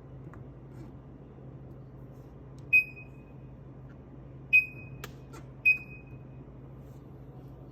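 Three short, high electronic beeps from a Viking refrigerator's control panel, unevenly spaced, with a couple of sharp clicks between the second and third. A steady low hum runs underneath.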